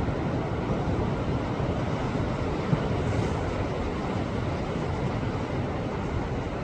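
Sea waves surging and washing against a rocky shore: a steady, low, rushing noise, with one short knock nearly three seconds in.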